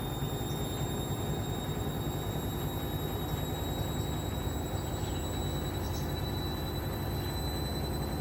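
Hoover washing machine spinning a load of wood: a steady heavy rumble from the drum, with a thin high motor whine that climbs slowly as the spin speeds up.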